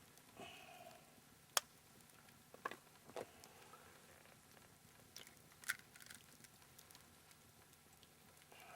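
An egg being cracked open into a jaffle iron: a few sharp taps and clicks spread over several seconds, the loudest about a second and a half in.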